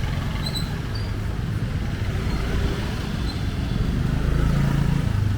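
Street traffic: a motor vehicle's engine running close by, its low hum growing louder about four seconds in as it nears. A few brief high chirps sound in the first second.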